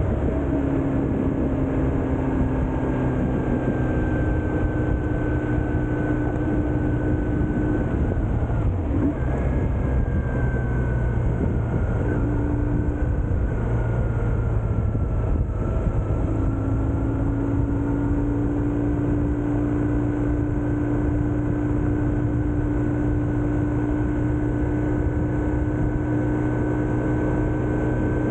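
BMW R1150GS Adventure motorcycle's boxer twin engine running steadily under way, with a thin whine over road and wind noise. The engine note dips and picks up again twice, about a third of the way in and just past halfway.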